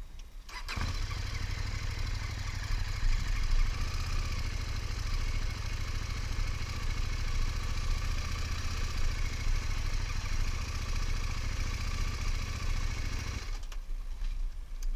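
Italika motorcycle engine catches about a second in and runs steadily, with a brief rise around three to four seconds, then cuts off suddenly near the end.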